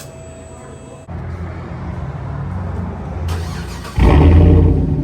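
Cadillac Escalade V8 running through a muffler-deleted exhaust with a low rumble. It starts abruptly about a second in and gets suddenly louder about four seconds in.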